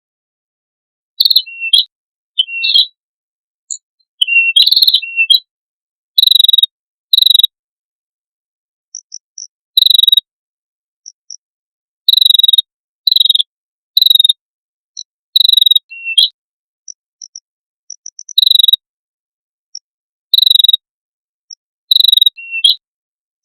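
Bird calls from a songbird-training (masteran) recording: about fourteen short, sharp, harsh chirps, loud and irregularly spaced, with clean silence between them and a few faint tiny high peeps in the gaps.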